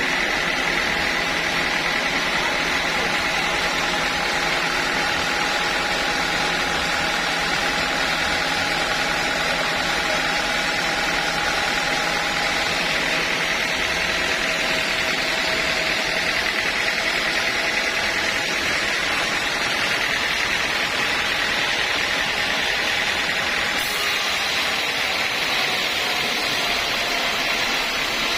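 Sawmill machinery running steadily: a dense, even mechanical noise with a faint high steady tone, unchanging throughout.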